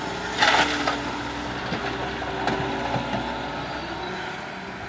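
Doosan DX140 excavator's diesel engine running steadily, with a brief loud crash about half a second in and a few lighter knocks a couple of seconds later, from the loading work.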